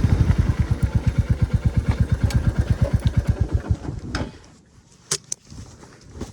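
Royal Enfield Classic 350's single-cylinder engine idling with even thumping beats, then fading and dying out at about four seconds as it is switched off. A few sharp clicks follow.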